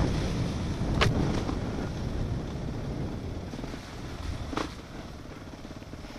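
Dirt bike engine running and dying down toward a low, even idle. Two sharp knocks cut through it, one about a second in and another past the middle.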